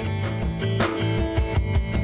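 A full band mix playing, with guitar, bass and drums hitting a steady beat, running through the PSP Twin-L limiter on the mix bus.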